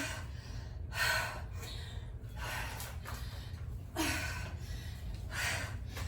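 A woman breathing hard from exertion, with a sharp, gasping breath about every second and a half.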